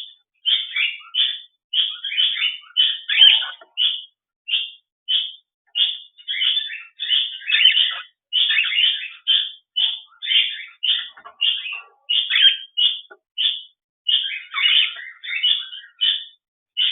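A pet bird chirping continuously in short, quick chirps, about two a second.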